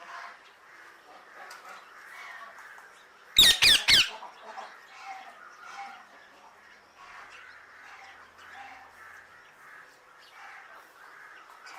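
Male ringneck parakeet giving three loud, harsh squawks in quick succession about three and a half seconds in, with softer scattered chatter throughout.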